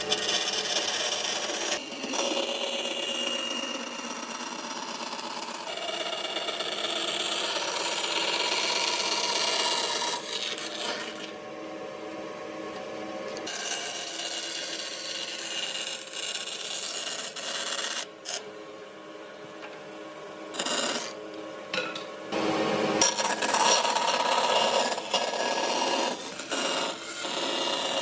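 A tool rubbing and scraping on wood, in long spells broken by two pauses of a couple of seconds each, the first about halfway through.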